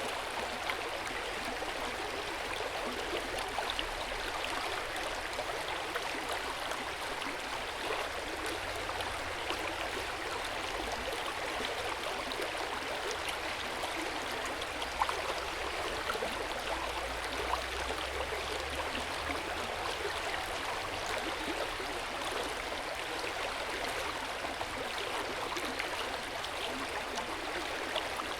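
Hot spring water flowing into an open-air bath: a steady rush of running water with scattered small drips and splashes.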